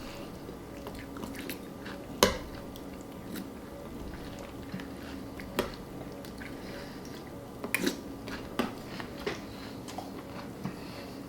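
Someone eating a bowl of Cinnamon Toast Crunch cereal, chewing and crunching with the mouth close to the microphone, with a few sharp clicks along the way.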